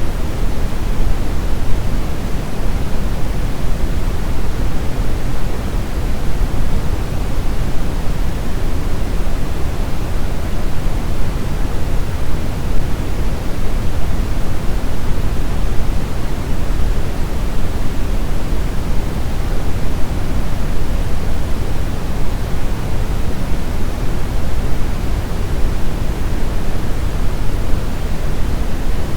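Steady, loud brown noise: a deep, even rushing hiss weighted toward the low end, with no change or events.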